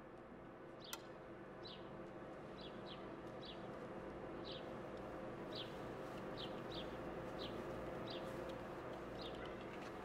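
A bird chirping over and over, short high chirps every half-second to second, over a steady low background hum. A single sharp click sounds about a second in.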